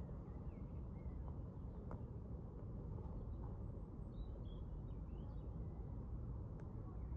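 Steady low rumbling noise with faint bird chirps, mostly around the middle, and a couple of small clicks.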